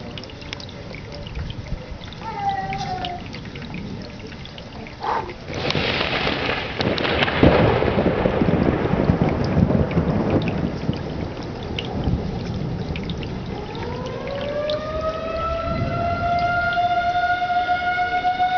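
Steady rain with a sharp thunderclap about five seconds in that rumbles on for several seconds. Near the end an outdoor tornado warning siren winds up and holds a steady wail.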